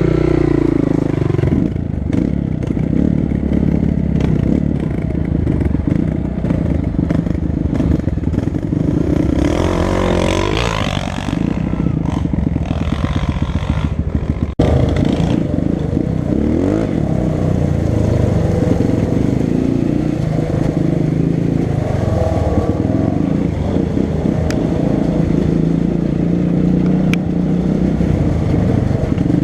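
Four-stroke single-cylinder dirt bike engine running under load on the trail, its revs rising and falling, with a clear rise in pitch about ten seconds in.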